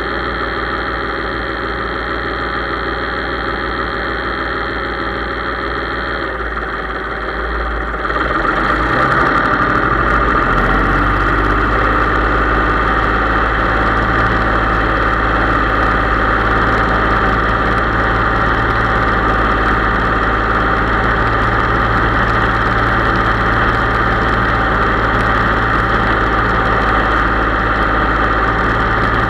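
Case IH 3220 tractor's diesel engine running steadily. Between about six and ten seconds in its speed changes, and it settles into a steady, slightly louder run at higher revs.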